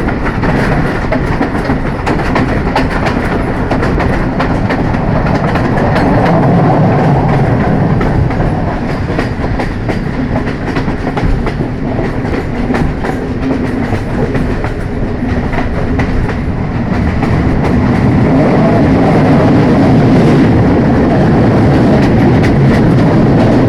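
Train running along the track: a steady rumble with the wheels' rhythmic clickety-clack over rail joints, getting louder late on.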